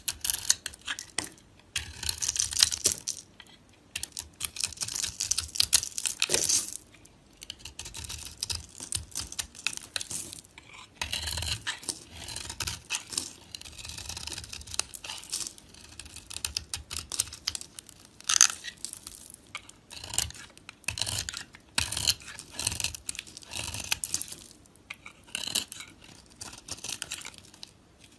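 Dry soap being cut and carved with a knife: crisp, crunchy crackling scrapes in runs of a second or two, with short pauses between the cuts.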